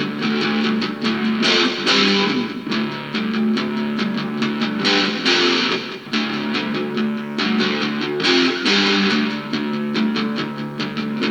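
Rock band playing an instrumental passage: guitars with bass over a steady drum beat, no vocals.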